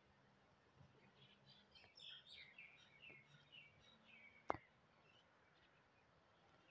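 Faint background chirping of small birds, with a run of quick high chirps in the middle, over a low steady hum. One sharp click about two-thirds of the way through is the loudest sound.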